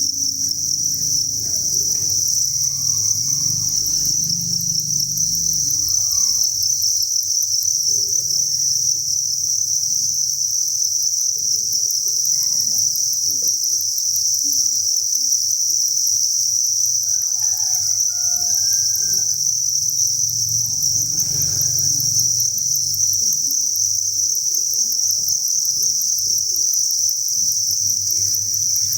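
A dense chorus of many crickets chirping together without a break, merging into one steady high-pitched trill.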